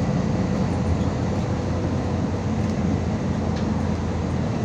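Steady engine and road rumble inside a MAZ 216.066 articulated city bus as it drives.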